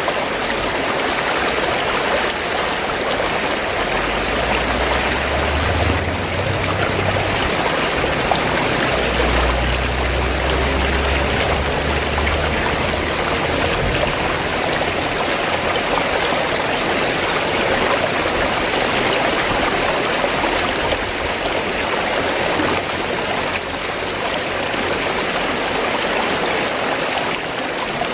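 Fast-flowing stream water gurgling and rushing steadily, with a low rumble that comes and goes in the first half.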